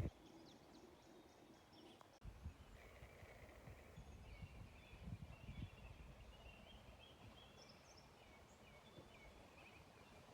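Faint outdoor ambience: a low background rumble with a run of faint, short bird chirps.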